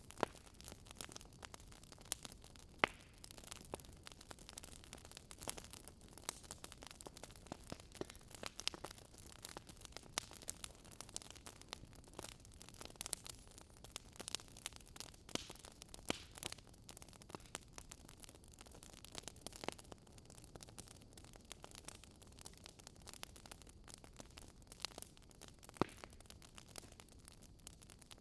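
Wood fire crackling: irregular sharp pops and snaps over a faint steady hiss, with a couple of louder pops about three seconds in and near the end.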